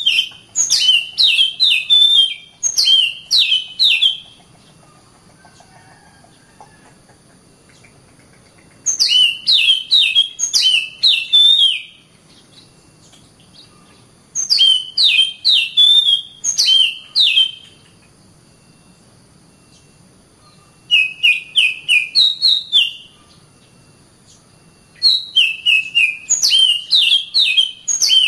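Oriental magpie-robin (kacer) singing in about five short bouts separated by pauses of a few seconds. Each bout is a quick run of loud, repeated whistled notes with sharp downward sweeps.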